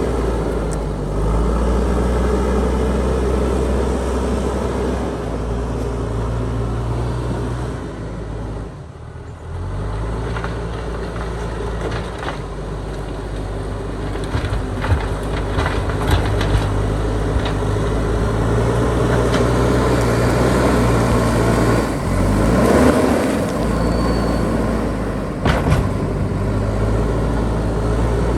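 JCB backhoe loader's diesel engine running steadily as the machine works, dropping off briefly about a third of the way through and picking up again. A few sharp knocks sound in the second half.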